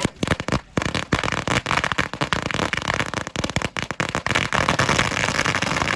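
Dense, rapid crackling and popping: many sharp, irregular cracks every second, kept up throughout.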